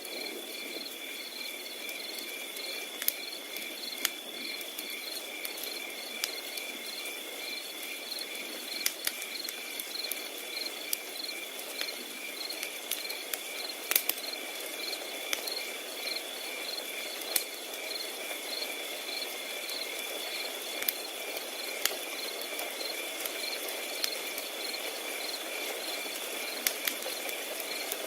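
Crickets singing: one steady high trill and a regular pulsed chirping. Over a low hiss, a wood fire crackles with scattered sharp pops.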